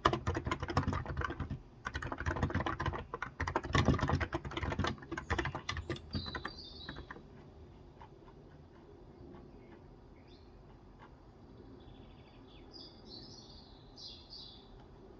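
Fast typing on a Cox Endeavor electro-capacitive (Topre-style) 35 g tenkeyless keyboard, which stops about six seconds in. After that, birds chirp faintly a few times, with a short run of chirps near the end.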